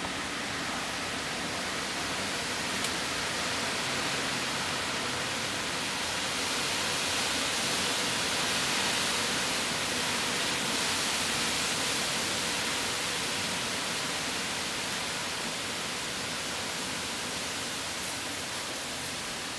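Hurricane wind and rain rushing steadily, swelling a little stronger around the middle and easing off again.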